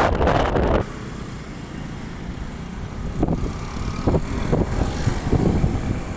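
Wind buffeting the microphone, cutting off abruptly under a second in, then a low vehicle-like rumble with a few short low thumps.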